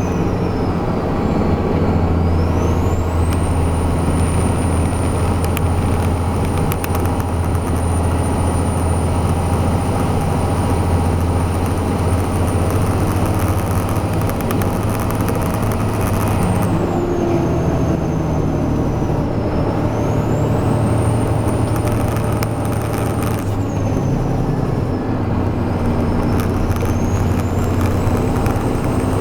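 Heavy truck's diesel engine running steadily while hauling a B-train combination, with a high whine that drops away and climbs back several times as the engine note shifts.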